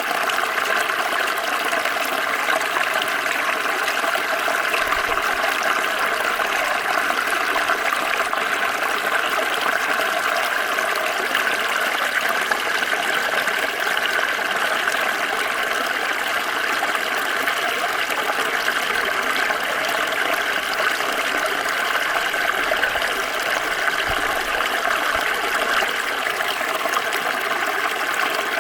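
Water flowing steadily in a small stream, an even rush of running water.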